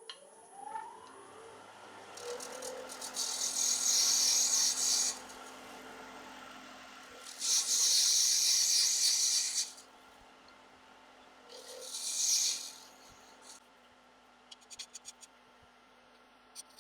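Wood lathe running with a steady motor hum, its whine rising in the first second, while a spindle gouge cuts a spinning acrylic resin pen blank in three passes, each a loud hissing shear of one to three seconds.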